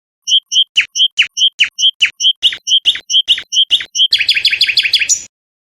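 A songbird singing one phrase. Short high notes alternate with falling whistles about twice a second, then the song breaks into a fast trill that stops abruptly.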